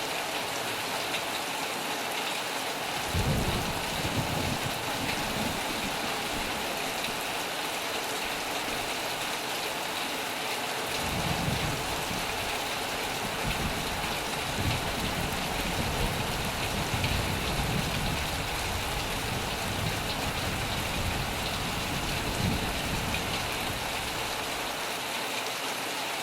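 Steady heavy rain hissing, with low rolls of thunder: a short rumble about three seconds in and a longer rolling rumble from about eleven seconds that fades shortly before the end.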